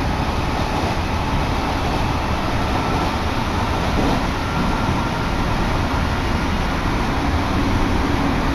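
Odakyu Tama Line electric commuter train heard from inside a passenger car, running at speed: a steady rumble of wheels on rail with a faint whine in the middle.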